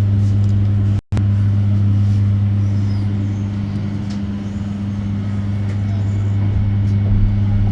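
Cabin noise inside an electric bus: a loud, steady low hum. The sound cuts out for an instant about a second in.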